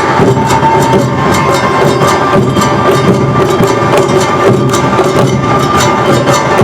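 Awa odori festival music from a large live band: rapid, even percussion strikes of drums and hand gongs driving the dance rhythm, over sustained melodic instruments.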